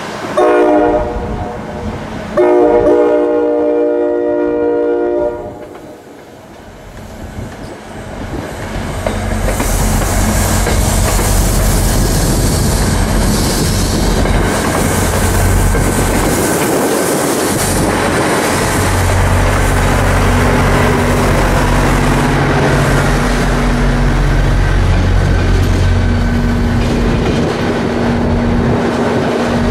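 A train horn sounds twice, a short blast and then a longer one of about three seconds, several tones at once. Then a commuter train's diesel locomotive runs with a loud steady drone over rumbling wheels and rails as it passes.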